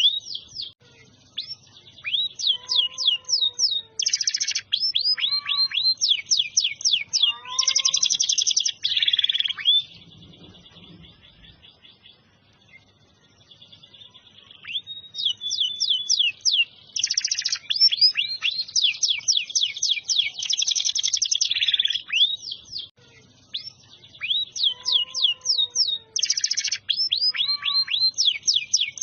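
Domestic canary singing: long phrases of fast trills and sweeping notes, with a quieter spell of a few seconds near the middle before the song picks up again.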